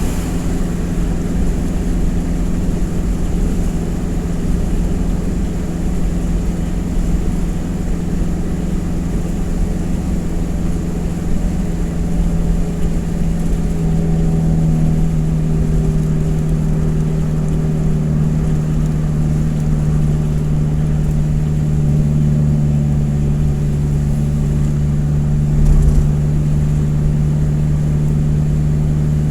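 A truck engine running steadily, a low continuous drone whose pitch steps slightly lower a couple of times.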